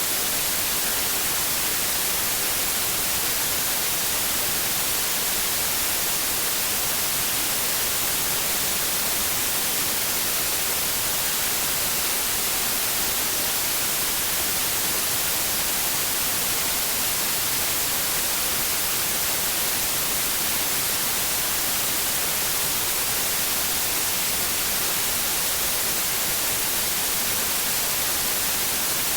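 Steady white noise, an even hiss with most energy in the high frequencies and no change in level.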